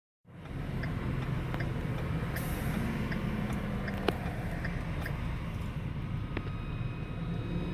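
Heavy road traffic: a steady low rumble of vehicle engines, with faint ticks at fairly regular intervals.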